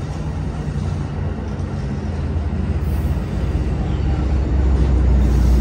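Departing Amtrak passenger train's bilevel cars rolling past, with the steady low drone of the EMD F59PHI diesel locomotive pushing at the rear growing louder as it approaches.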